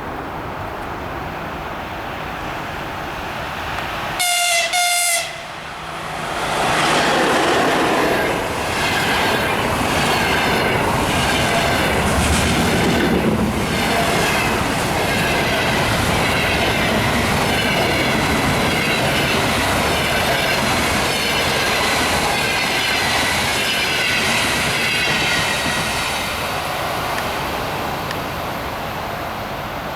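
Electric locomotive EP2K sounding two short horn blasts, then a double-deck passenger train passing close by for about twenty seconds with rumbling and clattering wheels on the rails, fading near the end.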